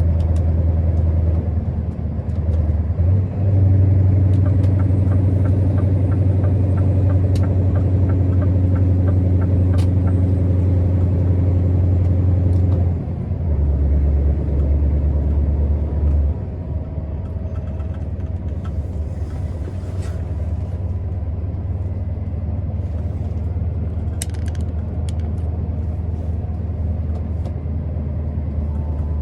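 Scania R650's V8 diesel engine pulling the truck along the road, a steady low drone. It steps up in level and pitch a few seconds in, drops back about halfway through and again a few seconds later, then runs on quieter.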